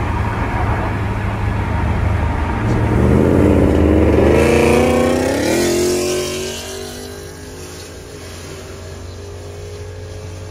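Supercharged 6.2-litre V8 of a 2014 Corvette Stingray accelerating hard, heard from inside the cabin with heavy wind and road noise. The engine note climbs steadily in pitch for a few seconds, then about six seconds in it falls away to a quieter, lower steady hum.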